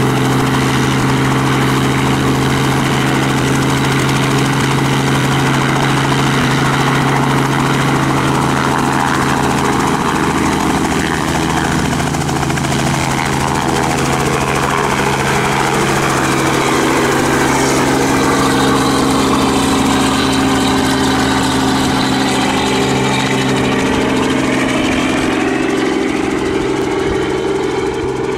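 Robinson R44 Raven helicopter's six-cylinder Lycoming piston engine and rotors running steadily, a loud drone with a few shifts in pitch in the second half.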